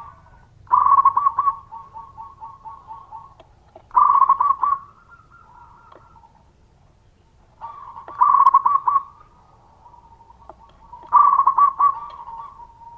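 Zebra dove (perkutut) singing: four cooing phrases about three to four seconds apart. Each opens with a loud, rapid run of notes and trails off into softer, evenly spaced coos.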